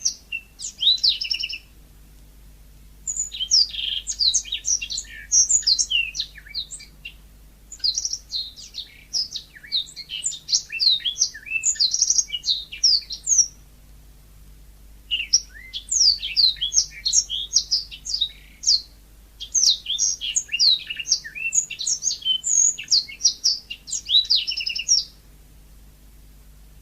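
Yellow-fronted canary (Mozambique canary) singing: rapid high chirps and trills in a short burst at the start, then two long phrases of about ten seconds each, separated by short pauses.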